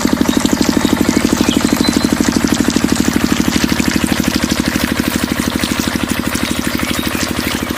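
Small engine idling steadily with a rapid, even beat, easing slightly in level about two-thirds of the way through.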